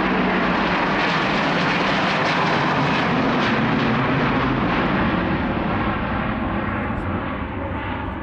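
Jet engines of a large airliner at takeoff power on its departure run: a loud, steady noise that begins to fade and grow duller about five and a half seconds in as the aircraft moves away.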